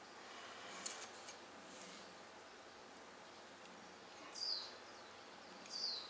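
A bird gives two short, high, downward-sweeping chirps a second and a half apart, with a few small sharp clicks about a second in.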